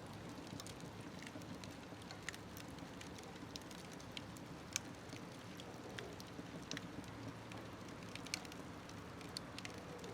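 Wood fire burning in a smokeless wood stove: a steady low rumble of the flames with scattered small crackles and pops, one sharper pop about three-quarters of the way through...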